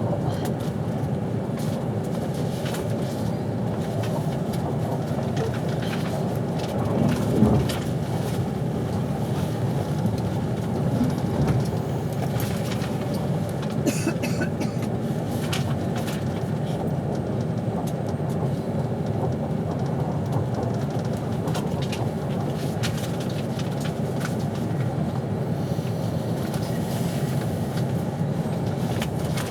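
Steady low rumble of a passenger train running on the rails, heard from inside the carriage, with a brief louder jolt about seven seconds in and scattered light clicks.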